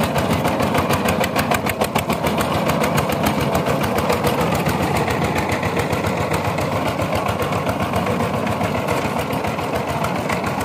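Sifang power tiller's single-cylinder diesel engine running steadily with a rapid, even chugging beat.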